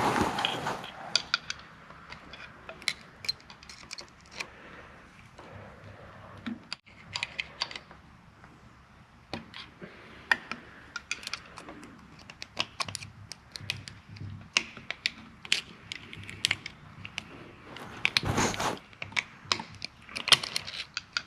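Irregular small metallic clicks and scrapes of hand tools working on engine parts while the piston's wrist-pin clip is worked out, with a denser scuffling burst near the end.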